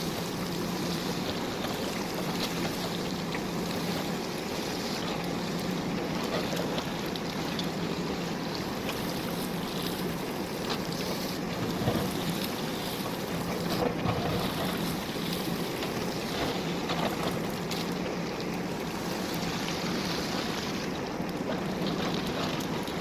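JCB backhoe loader's diesel engine running steadily under work, with two sharp knocks a couple of seconds apart about halfway through.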